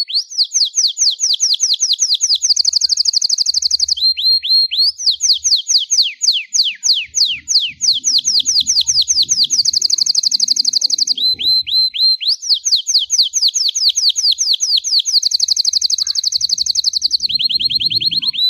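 Belgian canary singing its 'campainha' song without a break: a high-pitched string of trills, each a rapid run of identical falling notes, switching every second or few between slower, separated notes and fast rolls that blur together.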